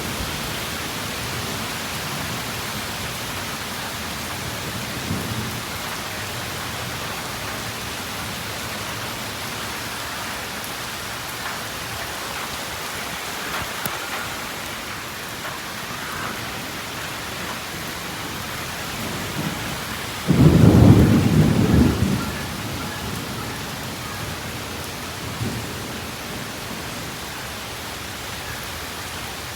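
Steady rain falling, with low rumbles of thunder; the loudest roll comes about two-thirds of the way through and lasts a couple of seconds.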